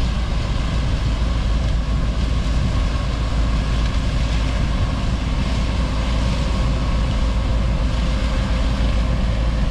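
Heavy farm vehicle's engine running steadily: a constant low drone and hum that holds at an even level throughout.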